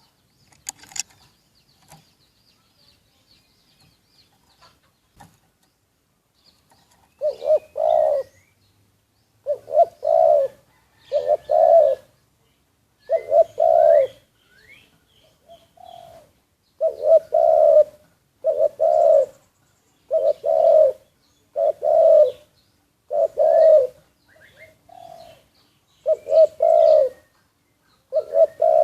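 Spotted dove cooing over and over, a low rolling coo phrase about every one and a half to two seconds, starting about seven seconds in after a quiet stretch. Faint high chirps from smaller birds sound now and then.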